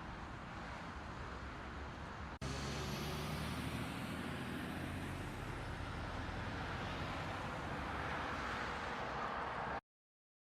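Steady road and engine noise from a vehicle driving. Two seconds in it cuts to a louder passage with a low engine hum, and near the end the sound stops dead.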